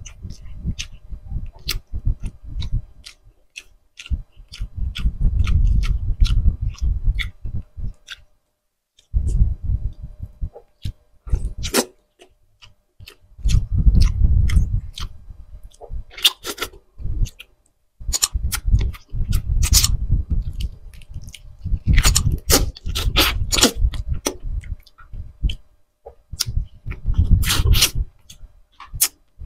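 A person chewing grilled tuna jaw meat, with lip smacks and sharp wet clicks, in bouts of a few seconds separated by short pauses.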